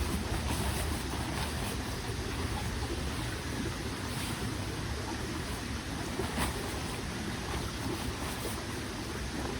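Small mountain stream flowing, a steady rushing of water, with a light click about six seconds in.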